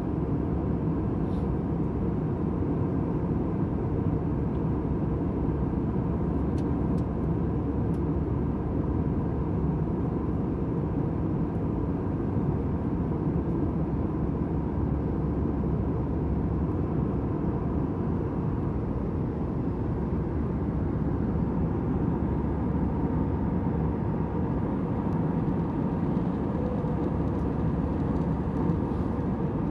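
Airliner cabin noise: a steady low rumble and hiss with a faint hum, the sound of the engines and airflow in flight.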